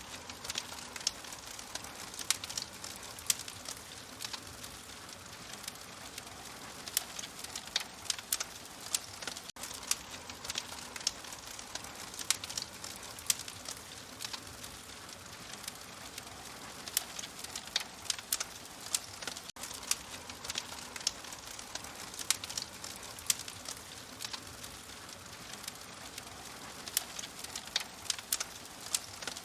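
Wood fire crackling in an open fireplace: irregular sharp pops and snaps, several a second, over a soft steady hiss.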